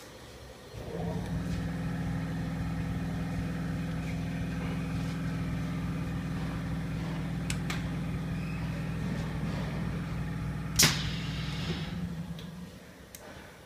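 Folder-gluer box gluing machine's electric drive starts about a second in and runs with a steady low hum. It stops after roughly eleven seconds, with one sharp click shortly before it dies away.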